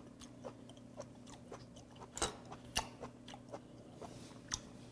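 A person chewing raw stone sea squirt, faint mouth clicks and soft wet chewing noises, with a few sharper clicks about two, three and four and a half seconds in.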